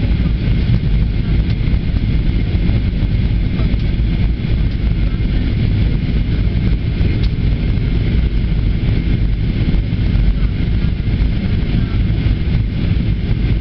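Steady in-flight cabin noise of an Airbus A320: a loud, even rumble of the engines and airflow.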